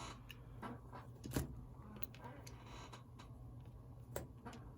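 Faint, scattered clicks and taps of small plastic parts being handled as an HO scale model locomotive's motor truck is worked free of its chassis, with a sharper click about one and a half seconds in and another near the end.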